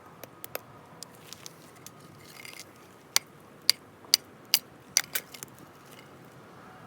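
A run of sharp clicks and pops, faint at first and then about six loud ones in quick succession in the middle, roughly two a second, over a quiet steady background.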